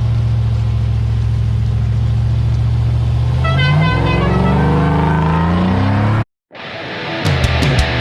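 Car engine running with a steady idle, then revving up about halfway through and holding at higher revs, with a brief run of high tones over it. It cuts off abruptly near the end, and electric-guitar rock music fades in.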